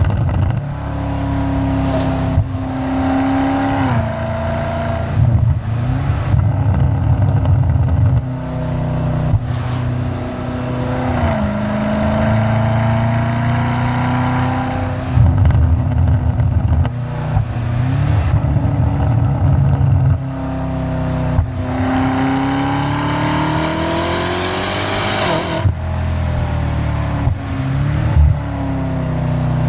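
BMW M5's twin-turbo V8 through an aftermarket DCE catback exhaust with the particulate filter deleted, heard close to the tailpipes while driving. The engine note rises under acceleration and drops at each upshift, with a long pull about three quarters of the way through.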